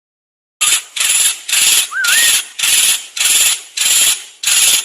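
Songbird repeating a harsh, rasping call, eight times at about two a second, with one short wavering whistle near the third call.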